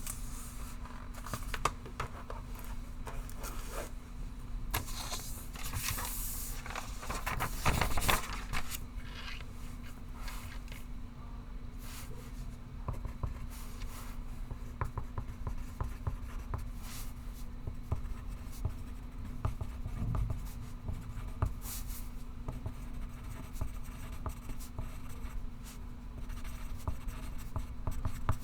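Pencil scratching on paper in irregular writing strokes, busiest a few seconds in, over a steady low hum.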